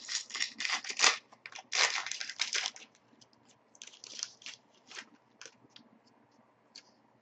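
Crinkling and tearing of a trading card pack's wrapper as it is opened, busiest in the first three seconds, then scattered light rustles and clicks of cards being handled.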